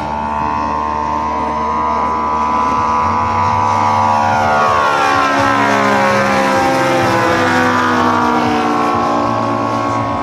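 Saito three-cylinder radial engine of a giant-scale RC model AT-6 Texan running in flight as the plane passes by: it grows louder, its pitch drops as it goes past, and it eases off slightly near the end.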